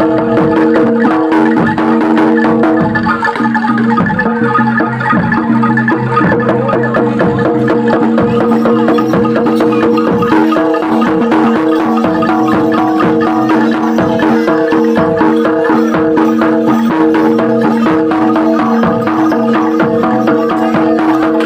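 Javanese gamelan ensemble playing: metallophones ringing in sustained tones over dense, rapid percussion strikes.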